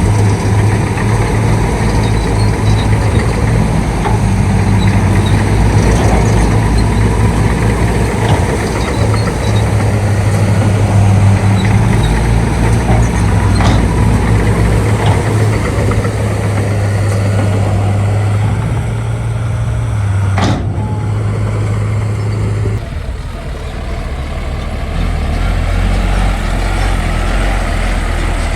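Shantui D95 bulldozer's diesel engine running steadily under load, with a single sharp click about twenty seconds in. Near the end the engine note drops lower and a little quieter.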